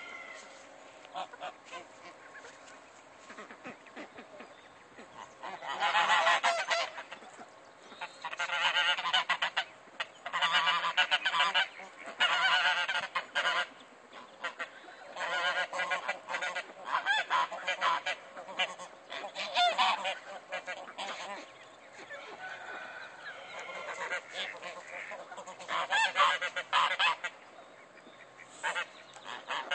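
Geese honking in repeated bouts of loud calling, each lasting a second or two with short pauses between, starting about six seconds in and dying down near the end.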